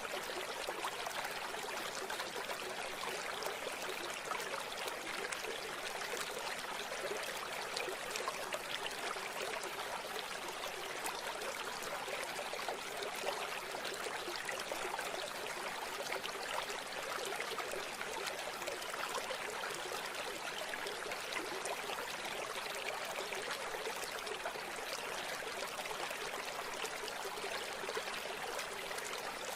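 River water flowing over stones, a steady rushing and trickling that keeps up without change.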